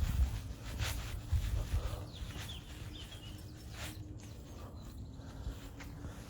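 Outdoor park ambience: a few footsteps and a low rumble over the first two seconds, then quieter, with a few faint bird chirps about halfway through and a faint steady hum.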